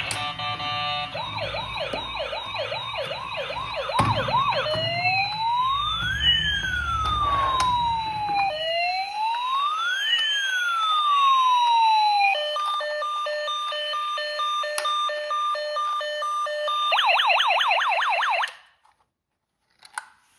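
Electronic toy police siren cycling through modes: a fast yelp, two slow wails, a steady hi-lo two-tone, then a fast yelp again, cutting off suddenly near the end.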